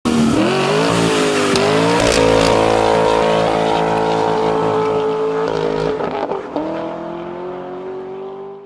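Car engine running hard at high revs, with a few brief dips and climbs in pitch like gear changes, then quieter with a slowly rising pitch over the last few seconds.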